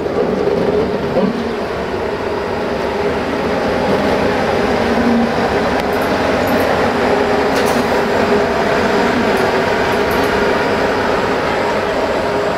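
Train running close by on the station tracks: a loud, steady rumble with a low hum, and a few sharp metallic clicks from the wheels and rails partway through.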